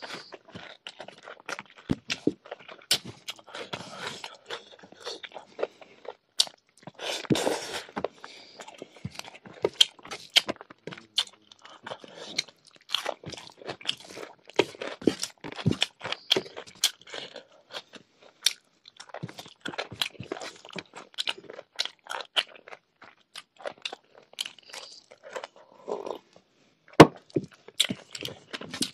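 Close-up chewing and crunching of a hand-eaten meal of rice and pork curry with raw vegetables: dense, irregular wet mouth clicks and crunches, with fingers working the rice on the plate. A single sharp click stands out a little before the end.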